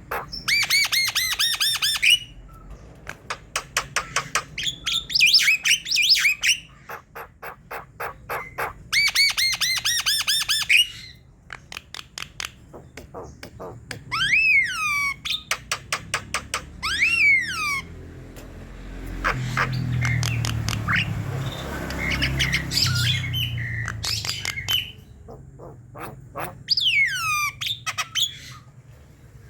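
Javan myna singing a loud, varied medley: fast runs of clicks, harsh rasping phrases, and several sharply falling whistles.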